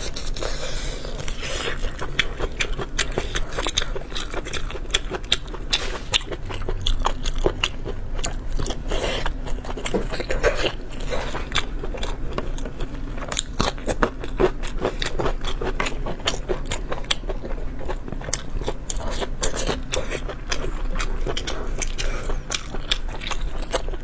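Close-up mouth sounds of a person eating: continuous biting and chewing, with a dense run of quick, sharp crunches and clicks.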